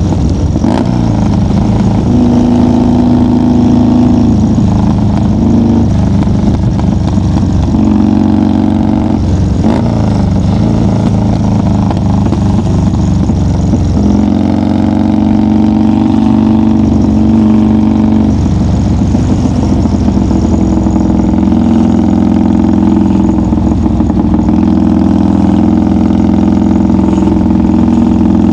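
1990 Harley-Davidson FXR's Evolution V-twin engine running under load on the road. Its steady note steps up and down in pitch several times as the rider works the throttle or changes gear.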